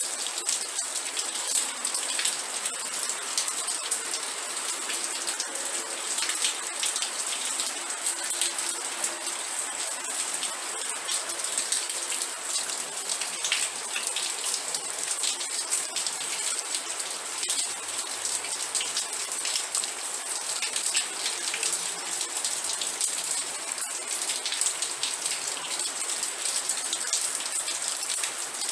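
Steady rain with many drops ticking on a hard surface, dense and unbroken.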